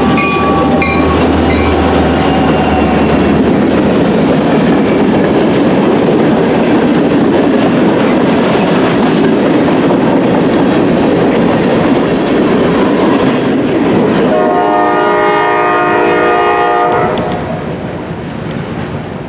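A CSX local freight train passing: a locomotive horn ends about a second in over the low rumble of the diesel engine, then the steady clatter of freight cars rolling over the rails. A horn sounds again for about two and a half seconds near the end, and then the noise drops off as the train moves away.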